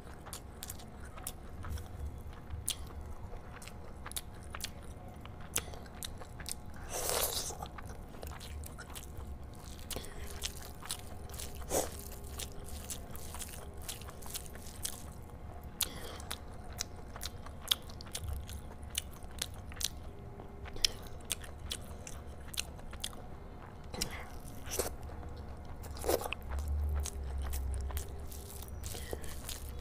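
Close-miked chewing and wet mouth sounds of a person eating rice and curry, with many short smacking clicks, and fingers squishing rice and curry together while mixing.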